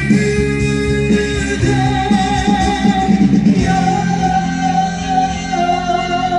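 Trot song performed live: a male voice holds long sung notes over the band's backing.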